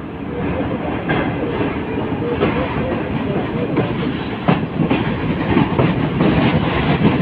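Karachi Express passenger coaches rolling along the track, heard from an open coach doorway: a steady rumble of steel wheels on rail, with irregular clacks as the wheels cross rail joints.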